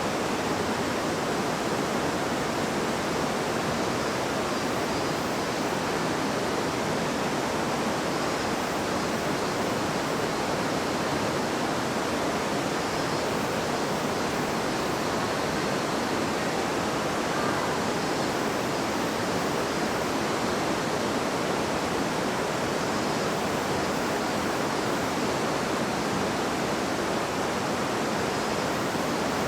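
River water babbling and rushing over stones in a steady, even wash of sound.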